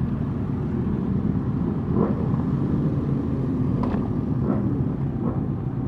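Motorcycle engines running steadily at low revs, with a few short rising-and-falling notes about two and four seconds in.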